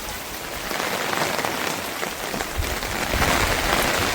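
Steady rain falling, a dense even hiss that grows louder about a second in.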